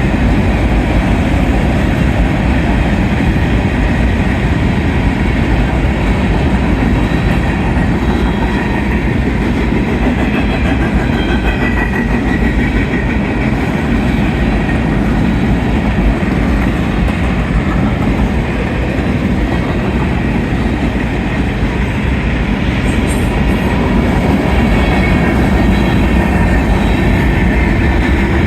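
Union Pacific manifest freight train rolling past at speed: a steady, loud rumble of wheels on the rails.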